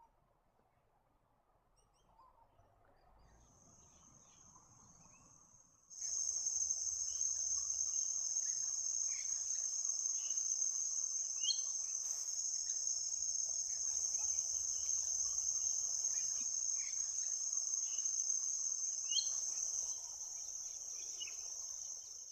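A steady, high-pitched insect chorus, faint at first and much louder from about six seconds in. Short high bird chirps are scattered through it.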